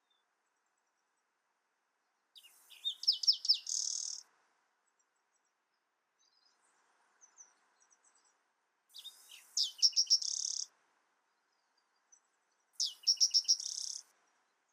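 A songbird singing three short, high phrases a few seconds apart. Each is a quick run of sweeping notes ending in a buzzy trill, and a few faint chirps fall between the first two.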